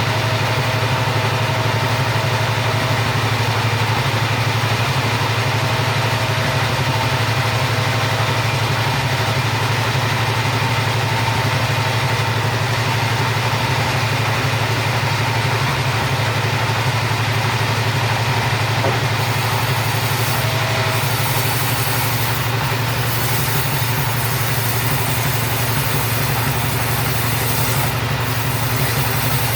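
Two-stroke chainsaw running steadily at high speed, sawing through timber for rafters.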